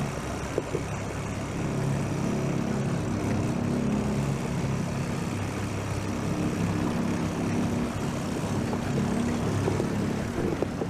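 Motorboat engine running at a steady speed, a constant low hum.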